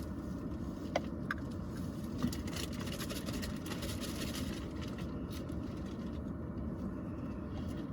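Steady low background rumble with a couple of light clicks about a second in, and some hiss in the middle.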